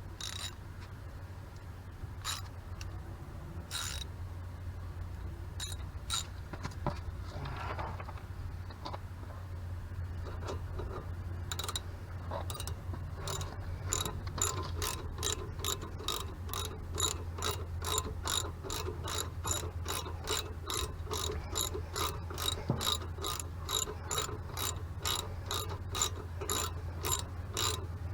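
Hand ratchet wrench clicking as a bolt is worked, a few scattered clicks at first, then a steady run of about three clicks a second through the second half. A steady low hum lies underneath.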